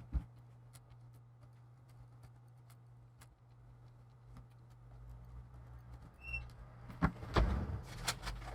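Faint scattered clicks and handling noise as small plastic laptop parts are moved about, over a steady low hum, with a brief high squeak about six seconds in and louder handling near the end.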